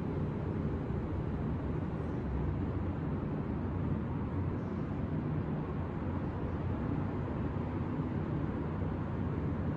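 Steady city traffic rumble heard from a high balcony, an even low hum of distant vehicles with no single passing car or horn standing out.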